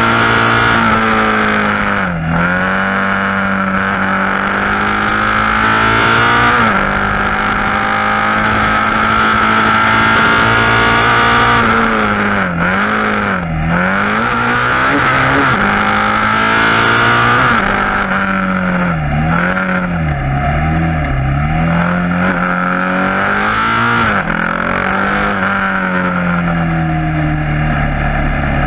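KTM Duke 690's single-cylinder engine with an Akrapovic exhaust, running under load while riding. The revs hold mostly steady, dip and pick up again several times, with a cluster of quick dips past the middle, and settle lower near the end.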